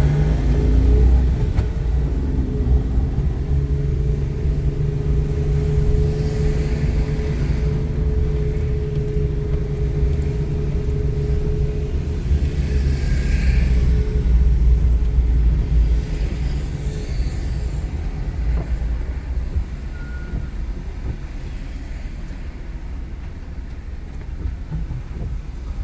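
Motor vehicle rumble: a steady low engine hum with heavy low-end road noise, easing somewhat in the last third.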